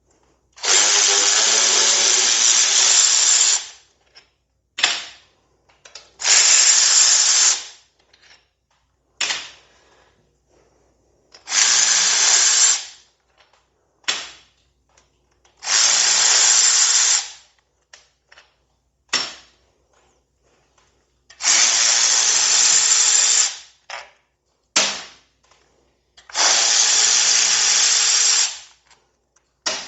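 A handheld power tool run in repeated bursts: six runs of one to three seconds each, with short blips between, backing out the bolts on a motorcycle's primary drive.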